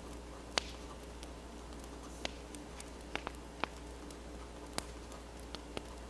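Wood fire crackling, with about ten sharp, irregular pops over a low steady background; the sharpest pop comes about half a second in.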